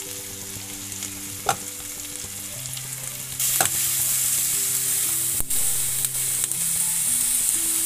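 Diced onions and green capsicum sizzling in butter and oil in a pan, stirred with a spatula that scrapes the pan a few times. The sizzle grows louder about three and a half seconds in.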